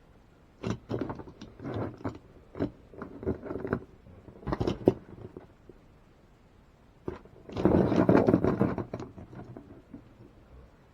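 Toy monster trucks being handled and set down on a table: a series of light clicks and scrapes, with a longer, louder scraping rustle about eight seconds in.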